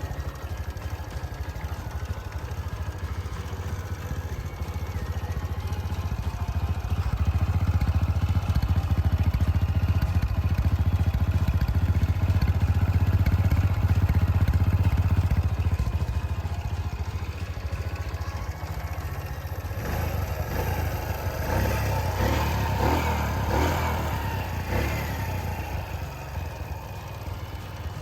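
Kawasaki Bajaj 4S Champion's four-stroke single-cylinder engine running just after being started up. It grows louder for several seconds before settling back to a steady idle, and the engine note shifts a few times near the end.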